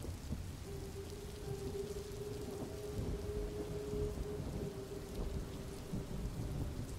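Steady rain ambience with a low rumble of thunder. A faint steady tone is held from about a second in until near the end.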